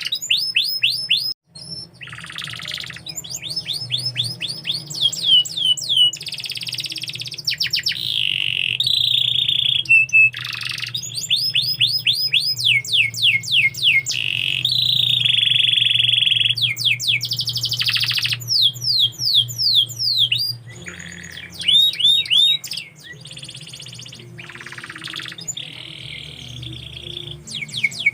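Domestic canary singing: quick series of rapid falling chirps, trills and held whistling notes, one phrase after another, with a short break about a second and a half in. A faint low hum runs underneath.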